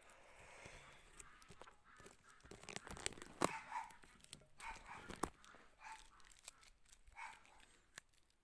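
An animal calling in short barks, roughly one a second, among scattered sharp clicks and knocks.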